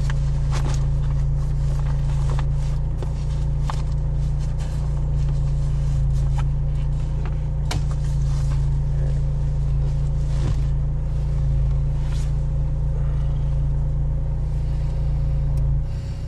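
A vehicle engine running steadily with a low rumble, under scattered light clicks and knocks.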